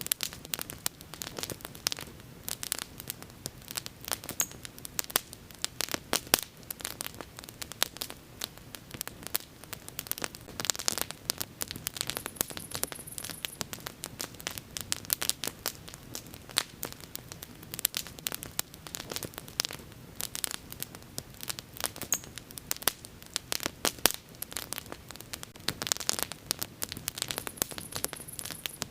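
Wood fire burning with constant crackling and popping, many sharp pops a second over a low steady rumble of the flames.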